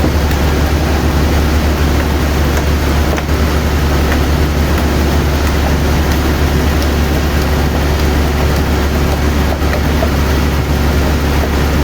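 Sawmill machinery running steadily, a loud, even mechanical noise over a deep hum.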